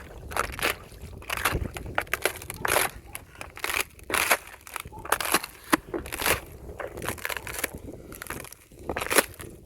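Thin fresh ice crunching and cracking as it is stepped on and broken, in a string of irregular sharp crunches.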